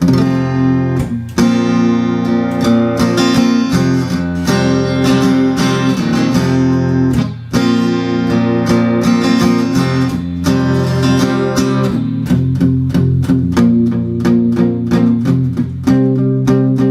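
Seagull Coastline S6 Burst acoustic-electric guitar strumming chords, amplified through its QI pickup and a Fender KXR 60 amp, with no piezo quack. The playing breaks off briefly about a second in and again about halfway through.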